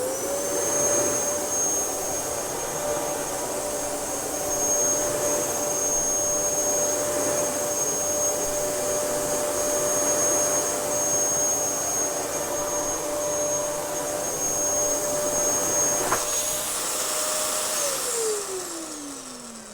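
Dyson DC07 bagless upright vacuum cleaner switched on: its motor whines up to a steady pitch over a rushing of air, with a high whistle, and runs at full speed. About 16 seconds in there is a single knock. Near the end it is switched off and the whine falls away as the motor spins down.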